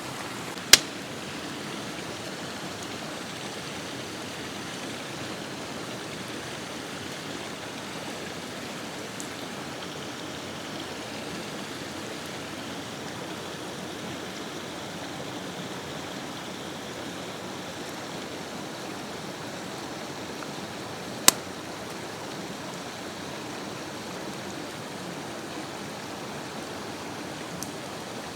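Kimchi hot pot heating over a flame: a steady rushing hiss, with two sharp pops, one about a second in and another about twenty-one seconds in.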